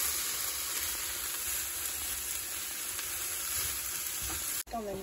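Diced vegetables and Quorn pieces frying in a Ridgemonkey pan, a steady sizzle as they are stirred with a spoon. The sound breaks off abruptly just before the end.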